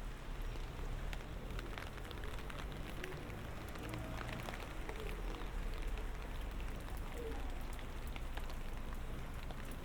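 Light rain falling steadily, with many separate drops ticking close by.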